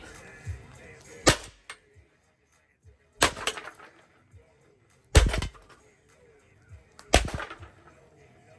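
A ceiling fan being smashed: four hard blows about two seconds apart, each followed by a short rattle.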